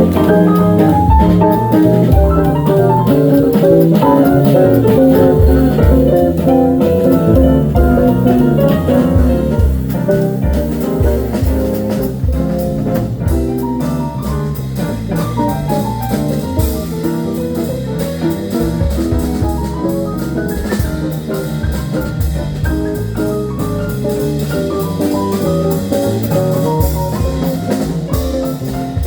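A band playing an instrumental blues passage, with no singing.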